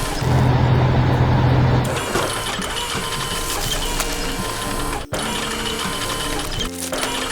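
Busy mechanical clatter of heavy machinery sound effects, with a loud low engine drone starting about a quarter second in and stopping near two seconds; the sound cuts out briefly about five seconds in.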